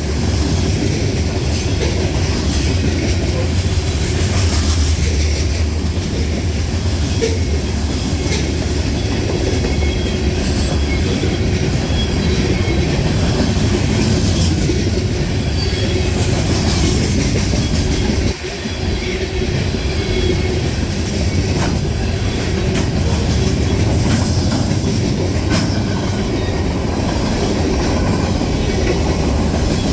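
Freight train rolling past, a steady loud rumble with the clickety-clack of wheels over the rail joints; the sound dips briefly about two-thirds of the way through.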